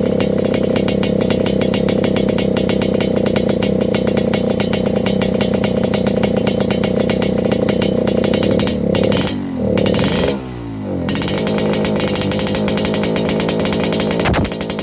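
Yamaha RX-King two-stroke single-cylinder engine revving with a raspy exhaust, held high, then the revs drop and pick back up about nine to eleven seconds in before settling at a steady lower speed. A sharp click near the end.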